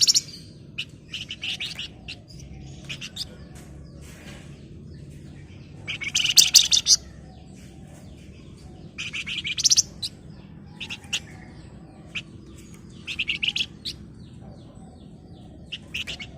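A pied fantail (flamboyan) singing. About four bursts of fast, dense chattering trills, each about a second long, come with single high chirps scattered between them, over a faint steady low hum.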